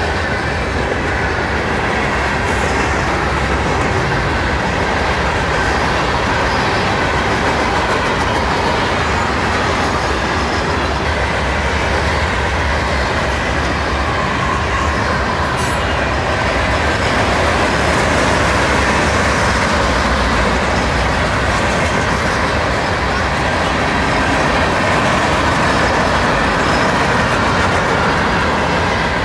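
Freight train cars rolling past at a steady pace, their steel wheels running on the rails.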